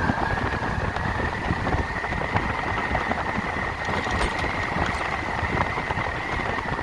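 Electric motorcycle's motor whine while riding: one high steady tone that climbs a little in pitch over the first couple of seconds and then holds, over wind and road noise.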